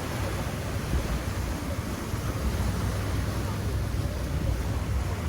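Wind buffeting the microphone as a steady low rumble, over the continuous wash of ocean surf.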